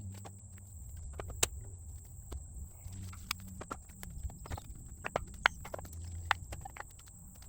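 Cut firewood pieces being tossed and clunking against each other in a tote, irregular wooden knocks, the sharpest about five and a half seconds in, over a low steady hum.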